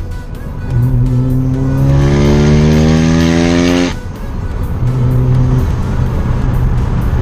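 Mazda RX-7 FD's four-rotor rotary engine heard from inside the car, climbing steadily in revs under throttle for about three seconds, then dropping off abruptly about four seconds in and running on steadier at lower revs.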